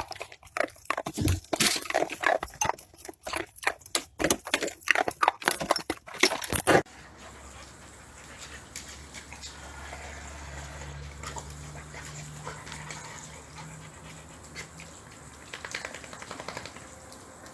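A dog making many short, sharp sounds in quick succession. About seven seconds in, this cuts to a quieter steady low hum with faint scattered sounds.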